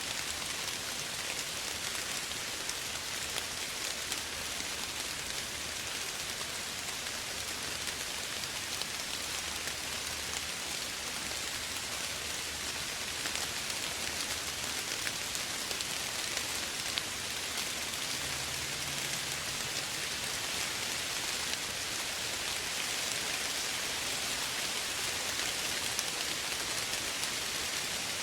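Soft, steady rain falling: an even hiss of many drops, with faint scattered individual drop ticks.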